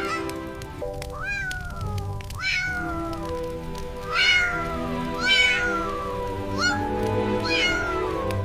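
Kitten meowing about six times, each meow a quick rise then a long falling call, the middle two the loudest, over gentle background music.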